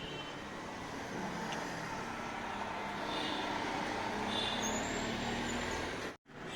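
Road traffic on a town street: a steady mix of passing vehicle engines and tyre noise. The sound drops out for a moment near the end.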